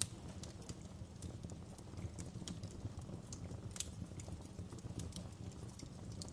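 Wood fire burning in a fireplace, crackling with irregular sharp pops over a low steady rumble of the flames. A louder pop comes right at the start and another a little before four seconds in.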